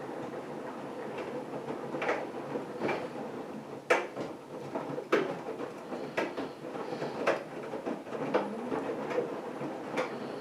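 AEG Lavamat front-loading washing machine running a wash: a steady hum from its inverter drive motor, with irregular knocks and swishes about once a second as the laundry tumbles in the turning drum.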